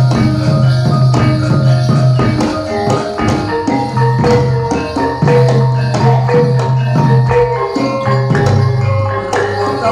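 Javanese gamelan music accompanying a jathilan dance: many short struck pitched notes over a steady low tone, with dense, quick drum and percussion strokes.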